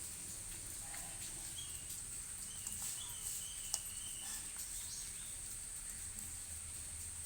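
Steady high-pitched insect chirring, with a few scattered soft clicks and a brief faint chirp about three seconds in.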